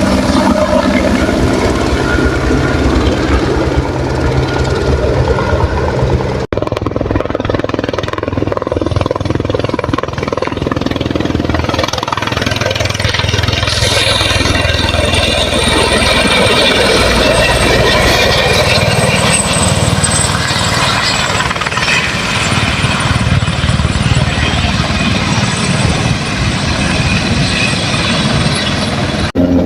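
Helicopter running close by: loud, steady rotor and turbine noise with a thin high whine, breaking off for an instant about six seconds in.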